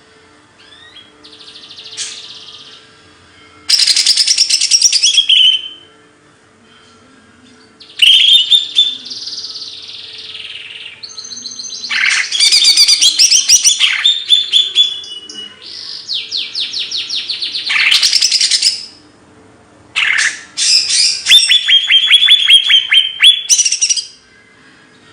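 A songbird singing loud phrases of trills, whistles and rapid repeated notes, each phrase lasting a second or two, with short pauses between them.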